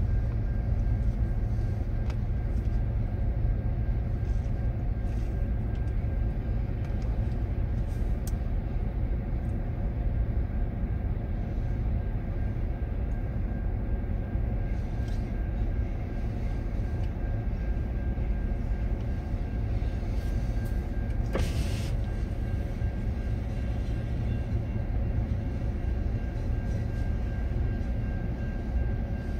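Steady low rumble of a freight train of tank cars and hopper cars rolling across a level crossing, heard from inside a stopped car. One short, sharper noise about three-quarters of the way through.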